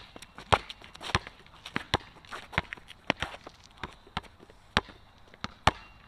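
Basketball being dribbled on a hard court: sharp bounces at an uneven pace, about one to two a second, with footsteps and shuffling in between.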